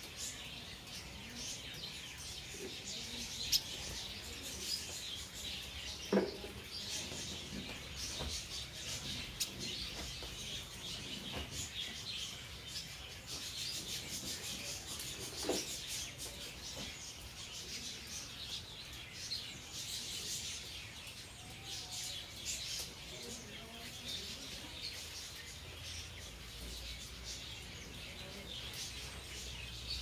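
Small birds chirping, a steady scatter of short high calls. A few sharper clicks stand out, about three and a half and six seconds in.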